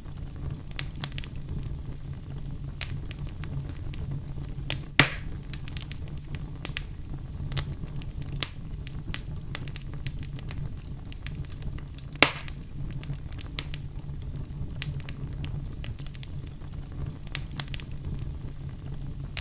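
Wood fire burning in a fireplace: a steady low rumble of flames with scattered crackles throughout and two sharp, loud pops, about five seconds in and about twelve seconds in.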